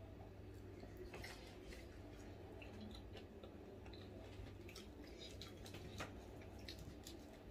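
Faint eating sounds: quiet chewing with scattered small clicks and smacks, over a low steady hum.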